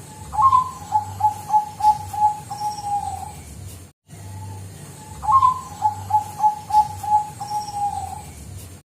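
Zebra dove of the Bangkok perkutut song strain cooing. Each phrase is a higher opening note followed by a quick run of about eight short coos, and the phrase is heard twice, with a brief cut-out between.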